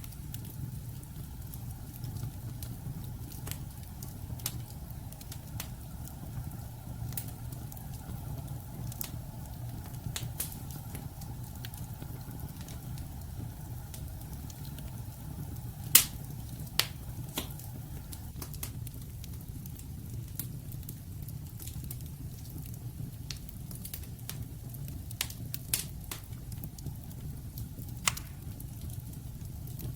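Wood fire of burning logs, a steady low rumble under scattered crackles and sharp pops, the loudest pop about halfway through.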